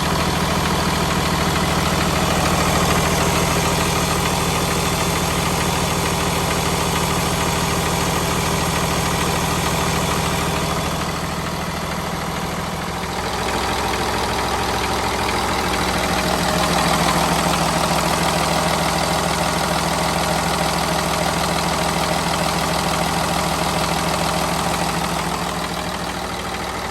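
2012 Blue Bird Vision school bus engine idling steadily, with a slight dip in level about twelve seconds in.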